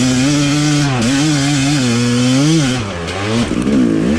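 Two-stroke dirt bike engine revving hard on a climb, its pitch rising and falling with the throttle and dropping off about three seconds in before picking up again.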